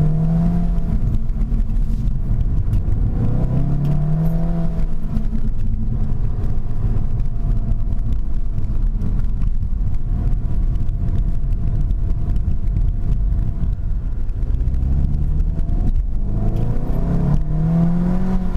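SEAT Leon Cupra 300's turbocharged 2.0-litre four-cylinder engine pulling the car along a twisty hill course, over a steady low road rumble. The revs climb and fall about three seconds in, hold fairly steady through the middle, and climb again near the end.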